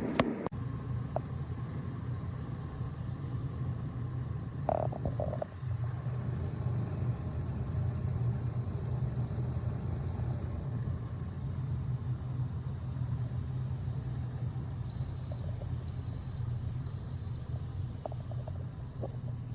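Small electric travel kettle heating water with a steady low rumble, with a sharp click at the start and three short high beeps from its control panel about two-thirds of the way through.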